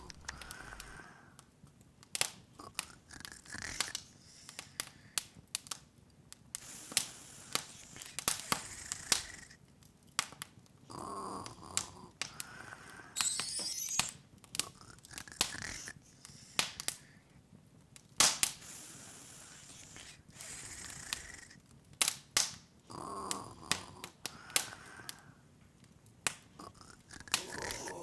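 Open wood fire crackling, with irregular sharp pops and snaps. About thirteen seconds in, a brief high glittering run of ticks rises over it.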